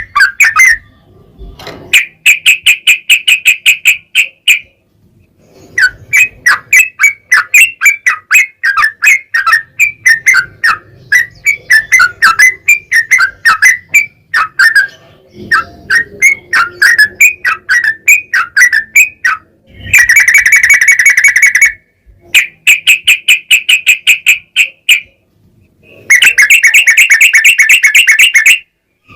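Yellow-vented bulbul (trucukan) singing long, rapid runs of repeated chattering notes, each run lasting a few seconds with short pauses between; two runs, about two-thirds of the way in and near the end, are louder.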